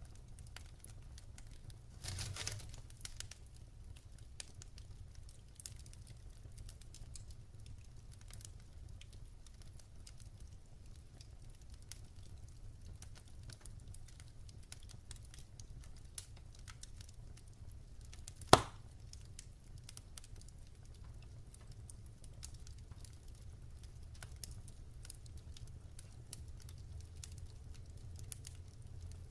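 Wood fire crackling in a fireplace, with scattered small pops, a burst of crackling about two seconds in and one sharp loud pop a little past halfway, over a low steady rumble.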